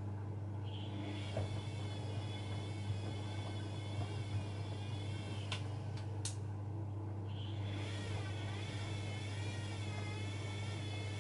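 Bosch Maxx WFL 248Y washing machine running, with a steady low hum and a motor whine that wavers up and down about once a second. Two clicks come a little past halfway, the whine drops out briefly, then it returns.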